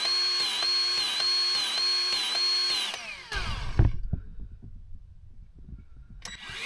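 Battery-powered grease gun's motor whining, its pitch dipping briefly about every 0.6 seconds as the pump strokes, forcing grease into a skid steer U-joint until it comes out the other side. The motor winds down a little past halfway, a knock follows, and it starts up again near the end.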